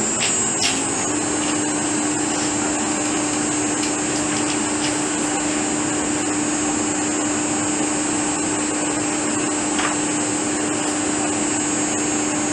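Electric motor driven by a Fuji inverter on test, running steadily: an even whirring noise with a steady low hum and a high-pitched whine. A few light clicks come about half a second in, and one more near the end.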